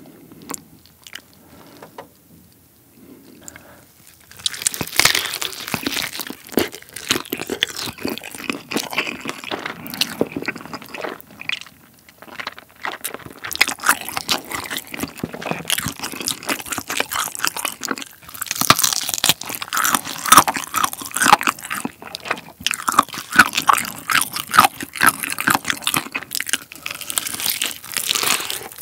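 Close-miked biting and chewing of a chili-pepper fried chicken drumstick: quiet handling at first, then from about four seconds in a steady run of crunches and wet chewing as the coated skin and meat are bitten off.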